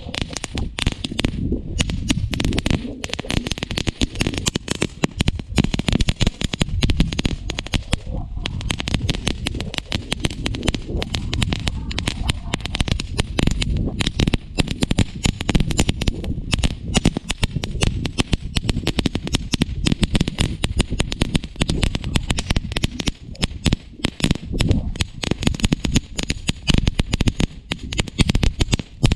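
Crackling firework fountain burning: a dense, unbroken stream of sharp crackles over a steady low rushing noise.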